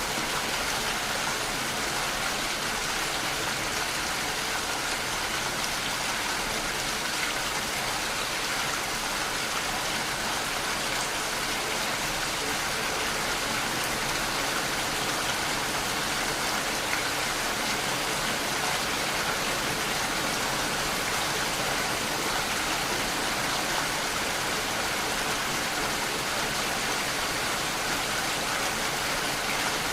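Steady rain falling, a continuous even hiss of rain on surfaces.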